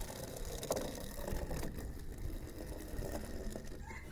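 Two die-cast toy cars rolling down a toy race track: a steady rattling rumble of small wheels on the track, with a couple of sharp clicks in the first two seconds.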